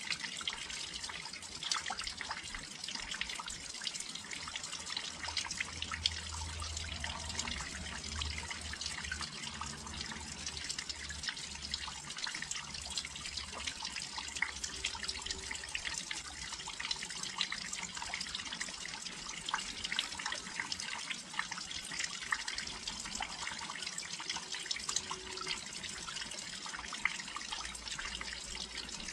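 Steady rain falling near a windowsill, a continuous hiss dense with the small ticks of individual drops striking close by.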